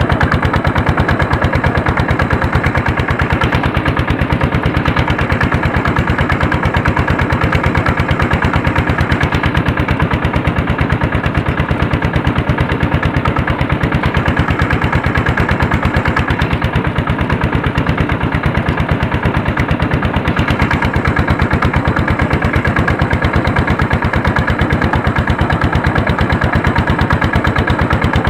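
Single-cylinder Andoria 1HC102 diesel engine of a small tractor running steadily while pulling a harrow, each firing stroke a distinct rapid thump.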